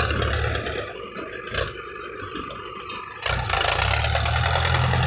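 Dump truck's diesel engine running at idle, a steady low hum that fades for about two seconds mid-way, with one knock, then comes back strongly.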